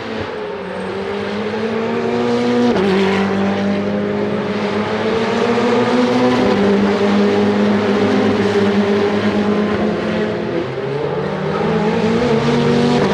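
Ferrari Challenge race cars' twin-turbo V8 engines running hard on track. The engine note drops sharply about three seconds in at a gear change, then holds and climbs again near the end.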